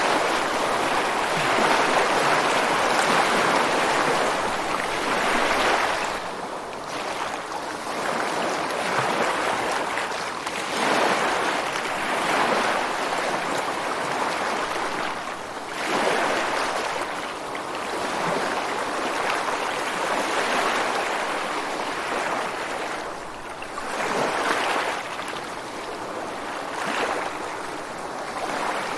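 Ocean surf breaking and washing over rocks along a beach: a continuous hiss of water that swells and eases every few seconds as each wave comes in.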